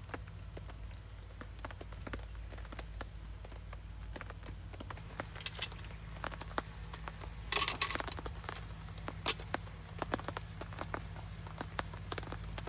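Light rain ticking on a tarp and a small campfire crackling, heard as scattered irregular ticks and pops. There is a brief rustle about seven and a half seconds in, and one sharper pop a little later.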